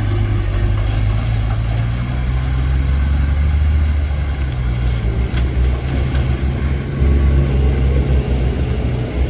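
Heavy diesel engine running steadily with a deep low hum, growing a little louder about seven seconds in.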